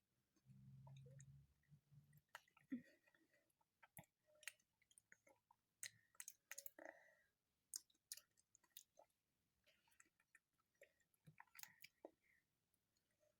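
Quiet mouth sounds of eating soft pineapple pudding: scattered small lip smacks and clicks while chewing, with a short low hum near the start.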